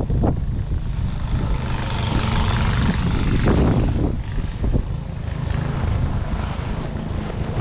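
Strong wind buffeting the camera's microphone in gusts, a low rumble with a rushing hiss that swells briefly and then eases. A faint steady hum runs underneath.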